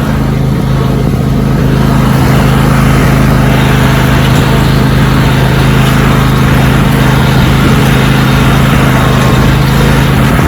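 Riding lawn tractor's small engine running steadily under load, a constant loud drone with a rough noisy overlay.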